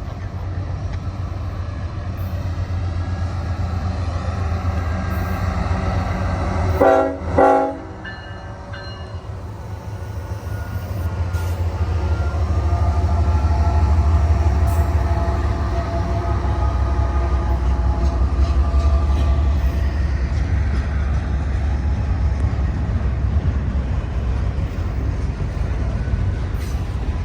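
Freight locomotive's Nathan K5HL five-chime horn sounding two short blasts as a horn salute about seven seconds in. Then the heavy rumble of the diesel locomotives builds as the train passes, with tones slowly falling in pitch above it.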